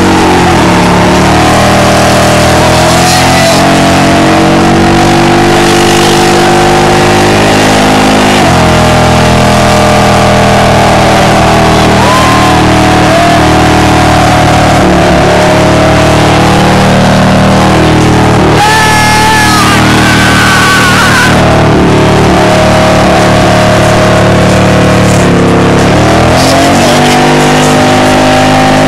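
Chevy pickup truck's engine held at high revs during a burnout, the revs dropping off and climbing back up several times, with tires squealing in wavering tones about two-thirds of the way through. Loud throughout.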